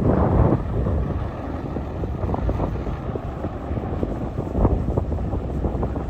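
Wind buffeting the microphone as a steady low rumble, with a few sharper gusts or crackles, one near the start and a stronger one near the end.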